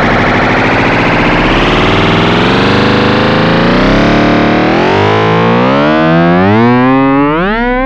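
Synthesized sci-fi electronic sound effect: a dense, distorted buzz that gradually thins into a few wavering tones, which climb upward in repeated steps toward the end.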